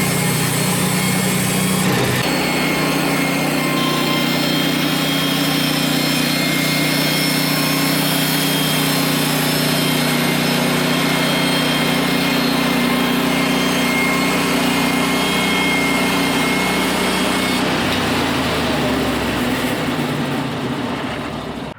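Small engine running steadily. Its pitch drops about two seconds in, shifts again near the end, and then the sound dies away.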